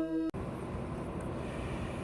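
A chime-like melody cuts off abruptly a moment in, giving way to the steady background noise inside a JR West 201-series electric train car.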